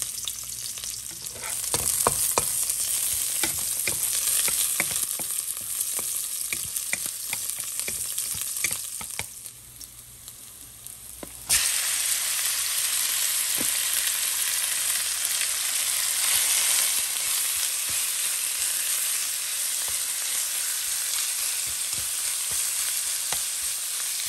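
Garlic sizzling and crackling in hot oil in a wok. About halfway through, marinated beef brisket is tipped in and the sizzle jumps suddenly louder, then goes on as a steady frying hiss while the meat is stirred with a wooden spatula.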